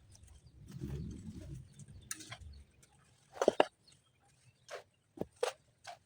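A low rumble in the first half, then a run of short, sharp knocks and clicks, the loudest a quick double knock about three and a half seconds in, with smaller single knocks after it.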